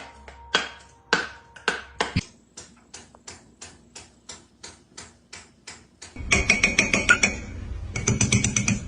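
A series of sharp taps, a few spaced about half a second apart, then a very even run of about three taps a second, followed by a louder, busy stretch of sound near the end.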